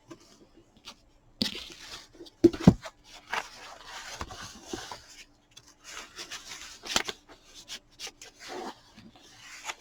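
Handling of a paper book and bookmark: irregular rustling and rubbing of paper, with scattered small clicks and a couple of louder knocks about two and a half seconds in.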